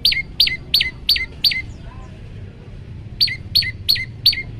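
Olive-backed tailorbird (prenjak lumut) calling: a quick series of sharp notes, each sweeping steeply down in pitch, about three a second. It breaks off about a second and a half in and resumes about three seconds in.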